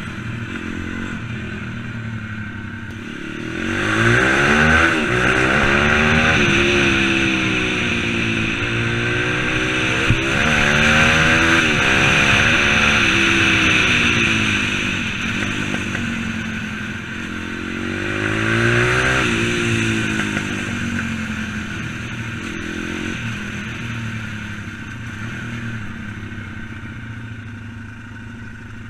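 M2R 140cc pit bike's single-cylinder four-stroke engine being ridden, its pitch climbing and falling as it revs up and eases off several times. The strongest climbs come about 3 s, 9 s and 18 s in, with a short sharp click about 10 s in. Near the end it settles to a lower, steadier note.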